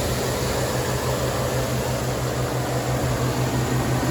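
2013 Chevrolet Avalanche's 5.3-litre V8 idling steadily with the hood open, a low even hum with a slight regular pulse. The engine and its belt are running smoothly, without vibration.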